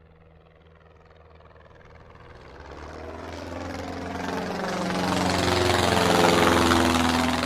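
A paramotor's engine and propeller growing steadily louder as it approaches, passing close about six seconds in, then beginning to fade.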